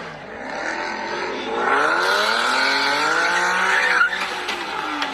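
A car engine revving hard with tyres squealing, its pitch climbing over the first two seconds and then holding high. A sharp bang comes about four seconds in.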